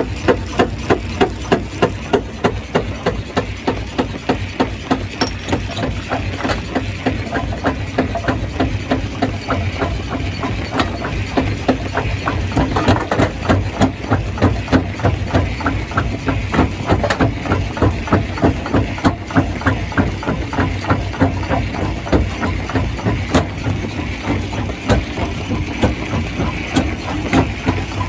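Stone crusher running: a steady low engine drone with a rhythmic knocking of about two to three strokes a second, the crusher working rock.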